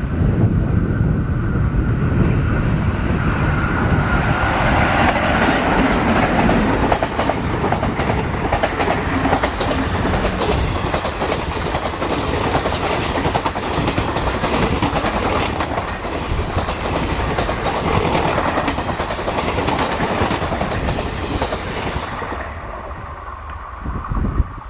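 A train passing close by, its wheels clattering over the rail joints in a dense run of clicks. The noise fades away near the end.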